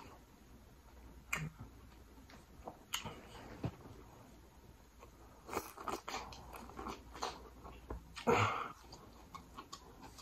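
Close-miked biting and chewing of corn on the cob, with short wet mouth clicks scattered through; the loudest comes about eight seconds in.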